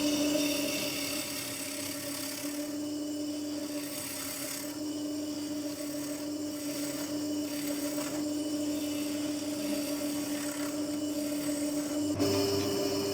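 Wood lathe running with a steady hum while a turning tool works the spinning bird cherry, giving a rasping hiss that fades and returns every second or so.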